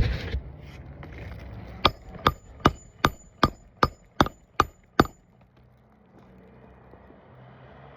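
Hammer driving a roofing nail into a replacement asphalt shingle: a run of about nine quick strikes, roughly two and a half a second, each with a short metallic ring, starting about two seconds in after a single knock at the start.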